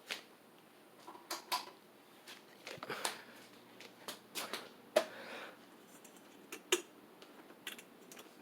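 Scattered sharp clicks and short rattles from a ceiling fan's pull chain and its switch being worked, the chain a little rough.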